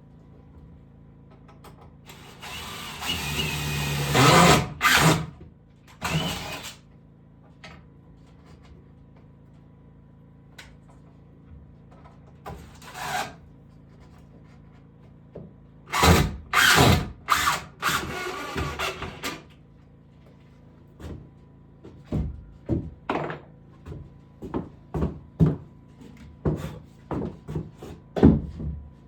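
A power drill runs for a couple of seconds, growing louder as it works, typical of driving a screw into wood. Later come loud bursts of tool work and then a string of short, sharp knocks of wood and tools being handled.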